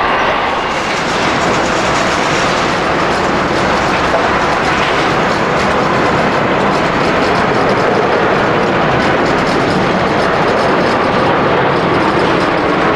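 Jet airliner's engines at close range: a loud, steady, broad rushing noise with no clear single tone, after a higher whine fades out at the start.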